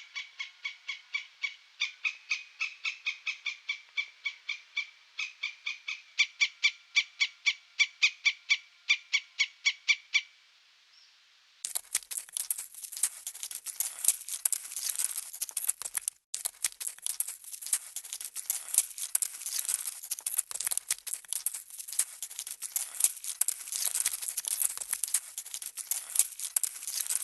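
Animal calls: a fast, even series of short high chirps, about three or four a second, stops about ten seconds in. After a short pause a dense, crackling chatter of high calls follows, with one brief break.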